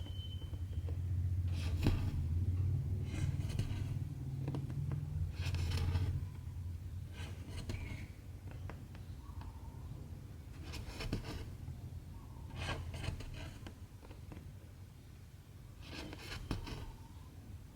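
Cotton embroidery thread drawn through cross-stitch fabric: a soft rasp with each pull, about every two seconds, over a steady low hum.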